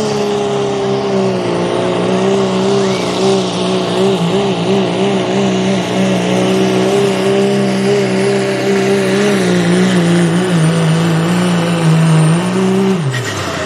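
Turbocharged diesel pickup truck making a pull, its engine held wide open at a steady high pitch with a thin high whistle above it. Near the end the note rises briefly, then drops away sharply as the throttle comes off.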